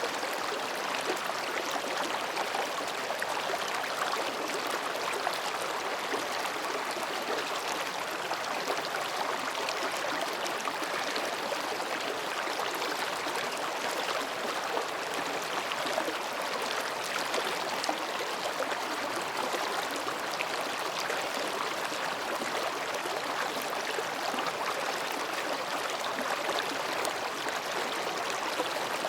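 Mountain gorge stream flowing between rocks: a steady, even babbling of running water.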